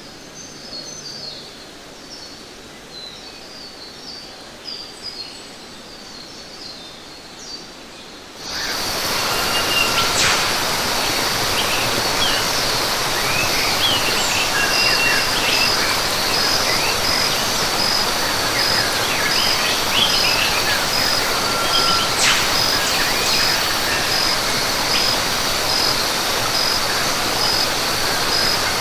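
Rainforest ambience: small birds chirping over a quiet background, then about eight seconds in a loud, even rush of water cuts in, with an insect's steady pulsing trill and scattered bird calls over it.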